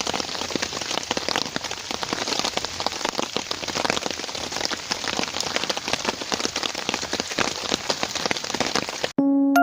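Steady rain falling, a dense patter of many small drops, which cuts off suddenly near the end.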